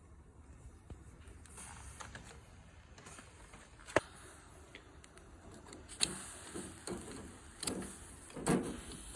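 Wood fire with a sharp pop about four seconds in, then a run of louder clicks and scraping knocks in the last few seconds.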